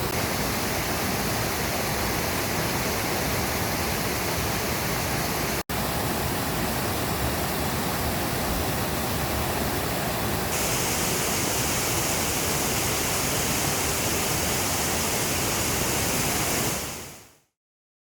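Steady rushing water of Wahkeena Falls and its cascading stream. It cuts out for an instant about six seconds in, turns brighter and hissier about halfway through, and fades out near the end.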